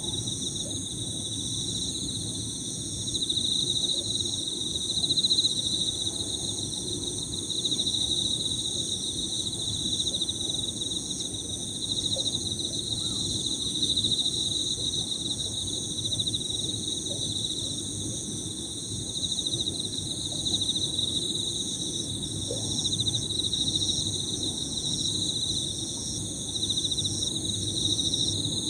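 Several Emma field crickets trilling at once, their high songs overlapping and swelling and fading, with a steadier, higher-pitched insect chorus above them and a low rumble underneath.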